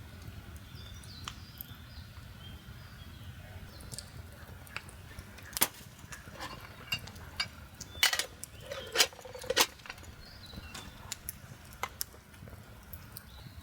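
Scattered small clicks and knocks over a low steady rumble, with a cluster of sharper, louder knocks between about six and ten seconds in.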